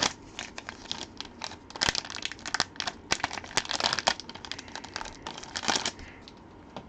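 Plastic packaging crinkling and crackling as a trading card is unwrapped by hand, in irregular rustles that die down near the end.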